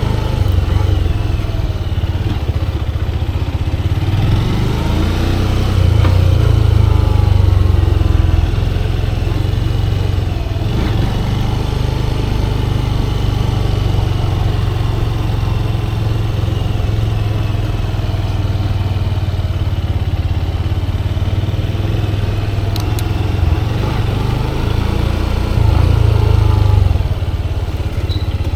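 Motorcycle engine running as the bike is ridden, its pitch rising and falling with the revs. It swells louder twice: about six seconds in and again near the end.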